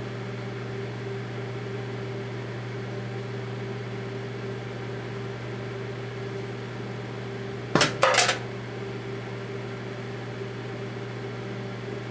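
Daewoo microwave oven running with a steady hum while cooking Play-Doh. About eight seconds in come two sharp pops in quick succession, typical of a lid popping off a sealed Play-Doh container as it heats.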